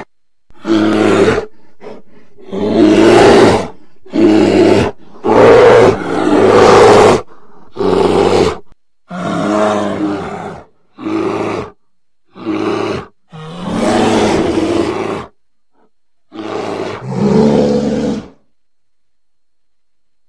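A bear roaring and growling: about a dozen loud, deep calls one after another with short gaps between them, ending near the end.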